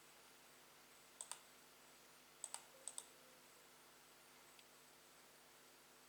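Three quick double-clicks of a computer button, sharp and close together, a second or so apart, over near silence.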